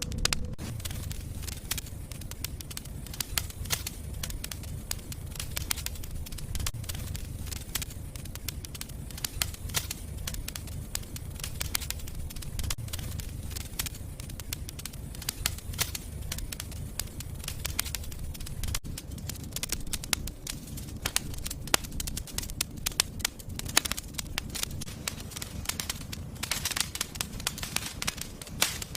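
Wood fire burning in a fireplace: a steady low rumble of the flames with constant small crackles and pops, the snapping thickest near the end.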